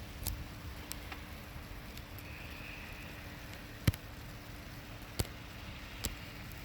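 Steady low background rumble with a faint steady hum, broken by a few sharp clicks or ticks, the loudest about four seconds in.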